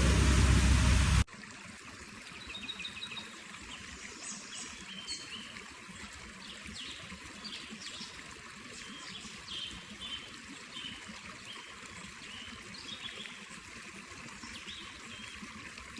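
Loud steady rushing noise cuts off abruptly about a second in, giving way to water trickling, with many short bright bubbling or chirping notes over a soft steady hiss.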